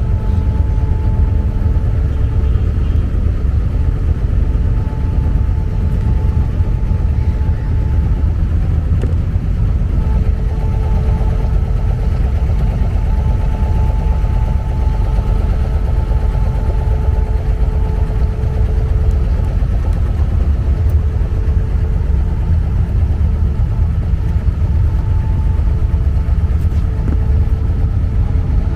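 Abra ferry's inboard diesel engine running steadily, a loud, constant low drone with a faint hum above it that comes and goes.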